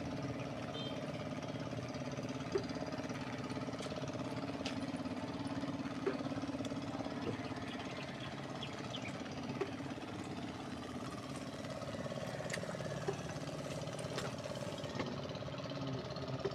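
A small engine idling steadily, with a few light clicks and taps over it.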